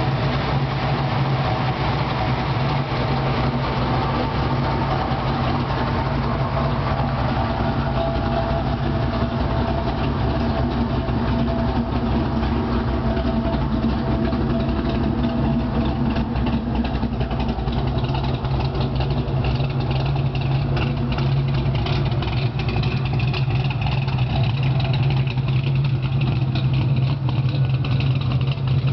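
The 700-horsepower engine of a 1973 Pontiac Trans Am idling steadily, with no revving.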